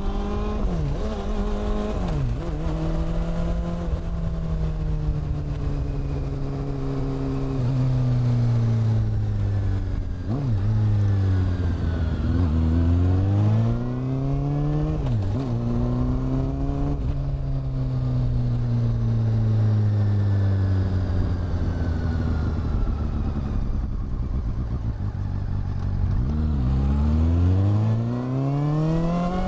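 Honda CB400 Super Four's inline-four engine and exhaust on the move. It holds steady cruising pitches for long stretches. Several times the pitch dips sharply and climbs again as the rider shifts gear and accelerates, and there is rush noise underneath.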